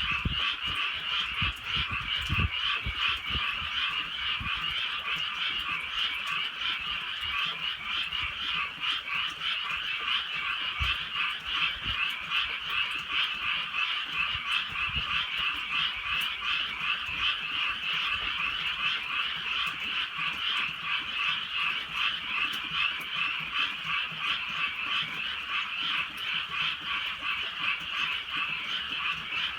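A dense, continuous chorus of many frogs croaking together, with faint ticks of light drizzle. There are brief low rumbles in the first few seconds.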